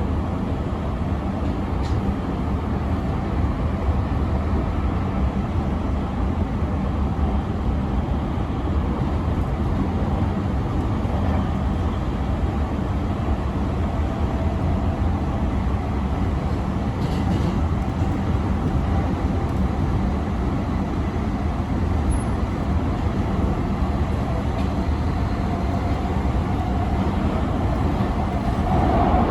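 E217-series electric train running steadily at speed, heard from inside the passenger car: a continuous low rumble of wheels on rail.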